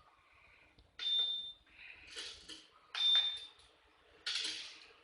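Stove being switched on: three sudden bursts of hiss, the first two each with a short, high beep or ring.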